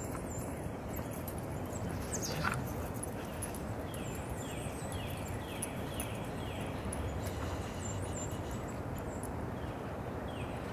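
Street ambience: a steady background rumble, with a bird calling a run of short down-slurred notes about half a second apart in the middle, and scattered light clicks.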